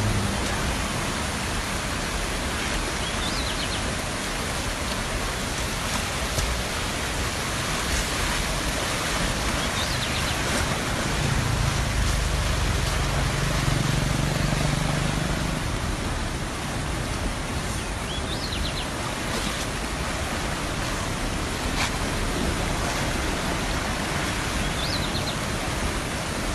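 Steady rushing noise of floodwater flowing. A low hum, like an engine, swells in the middle and fades.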